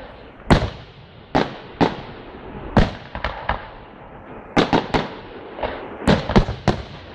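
Display fireworks bursting overhead in a string of sharp bangs, irregularly spaced and about one or two a second at first. They bunch into quick volleys of several bangs in the second half.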